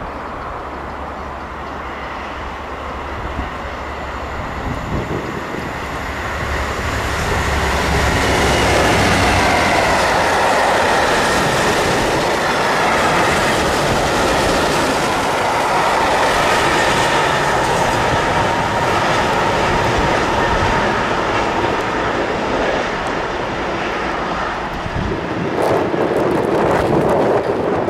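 A freight train hauled by a Class 66 diesel locomotive, which has a two-stroke V12 engine, passing. The sound builds over several seconds to a steady, loud run of wagons on the rails with a high whine over it, then eases a little before the end.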